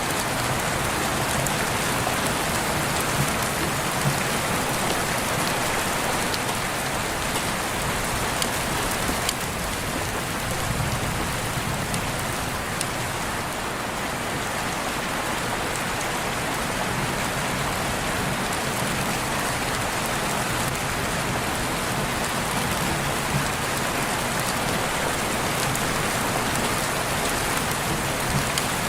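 Steady heavy rain falling, with scattered drops ticking on a surface.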